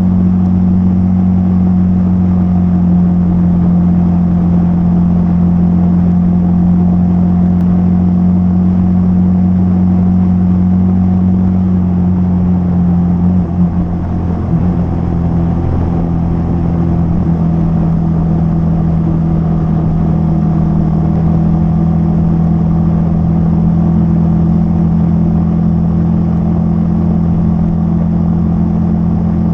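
Hero Xpulse 200's single-cylinder engine running steadily at cruising speed. About halfway through, the engine note wavers briefly and settles at a slightly lower pitch.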